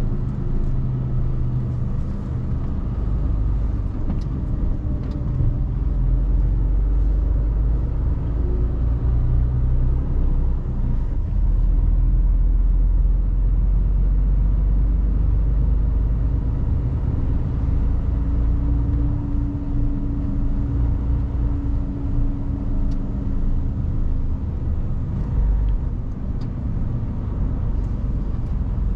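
Mercedes Actros truck's diesel engine running with road rumble while driving, heard from inside the cab as a steady low rumble.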